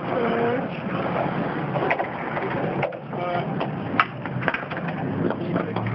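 Skateboard wheels rolling over concrete with a steady rumble, broken by a couple of sharp board clacks, with short shouts from people nearby.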